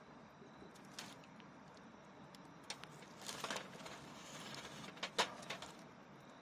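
Wood campfire burned down to a bed of hot embers, crackling: a low steady hiss broken by scattered sharp pops, with a cluster around three and a half seconds in and the loudest pop about five seconds in.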